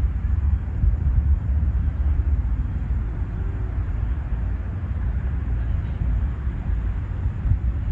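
Outdoor park ambience: a steady low rumble under a faint, even background hiss, with no distinct events standing out.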